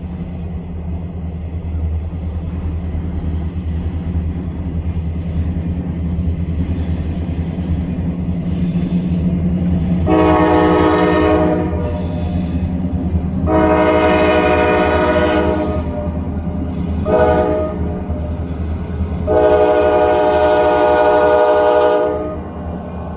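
Diesel freight locomotive's horn sounding the grade-crossing signal of two long blasts, a short one and a final long one, over the steady low rumble of its engine.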